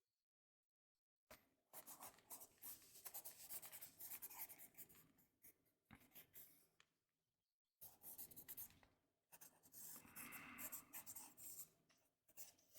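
Quiet scribbling of a writing implement on paper, in several stretches broken by short pauses.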